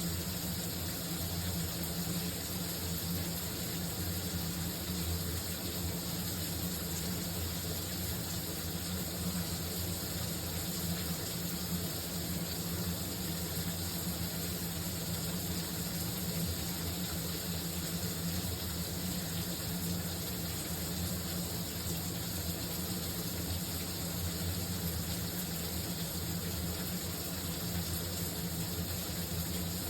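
A shower running: a steady, unchanging spray of water, an even hiss with a low hum underneath.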